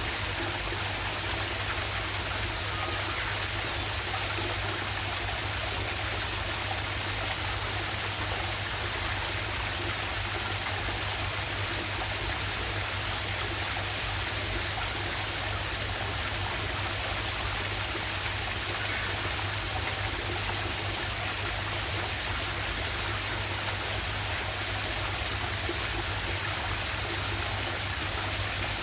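Small waterfall and river water rushing, a steady, unbroken flow.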